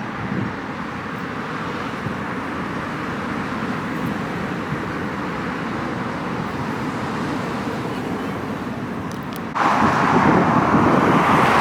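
Steady engine roar, stepping up abruptly to a louder roar about nine and a half seconds in.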